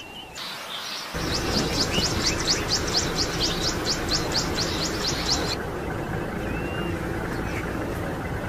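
A bird calling in a fast run of short, high chirps, about four a second, which stops about five and a half seconds in. Under it is a steady rushing noise like wind on the microphone, with a brief whistled note near the end.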